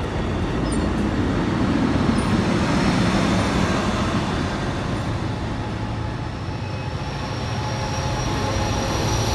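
Amtrak Cascades passenger train running: a steady rumble and rail noise that swells a little a couple of seconds in, with a thin high whine coming in near the end.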